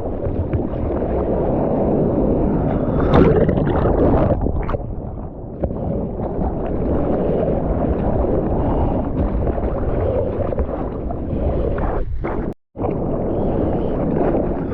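Steady rush of surf and moving water with wind noise on the microphone, out in the waves at a beach break. A louder splash comes about three seconds in, and the sound drops out for a split second near the end.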